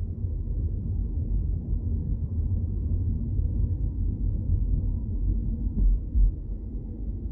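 Low, steady rumble of a car driving, with road and engine noise heard from inside. Two brief louder thumps come about six seconds in.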